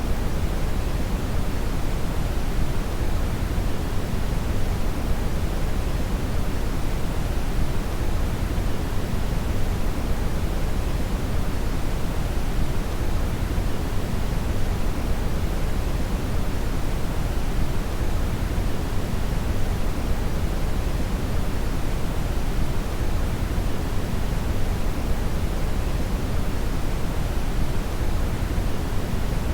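Brown noise (red noise): a steady, deep rushing hiss, heavy in the lows, unchanging throughout.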